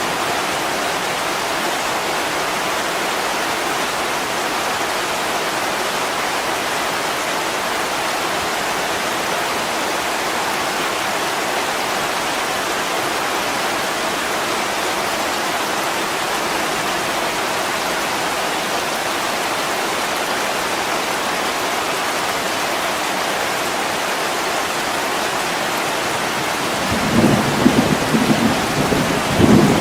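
Heavy rain pouring steadily onto a window. Near the end a louder, uneven low rumble rises under it.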